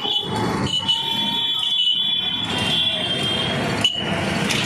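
Busy street traffic heard while riding through it, a rumbling mix of engines and road noise with a steady high-pitched tone over it that breaks off and comes back several times.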